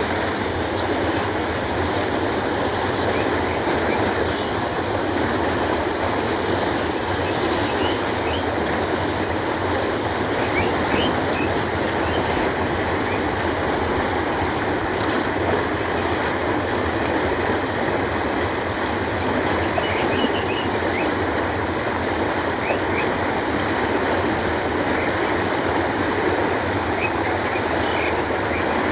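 Steady rushing of water flowing along a village canal, with a few faint, brief bird chirps scattered through it.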